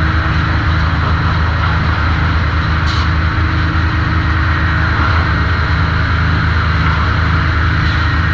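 Sawmill machinery running steadily: a loud low drone with an even hiss above it, and a brief high tick about three seconds in.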